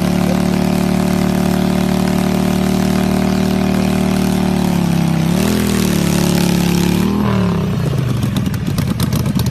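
Motorcycle engine holding a steady high rev, briefly dipping and rising twice, then dropping to a low, pulsing run near the end, as the throttle is let off.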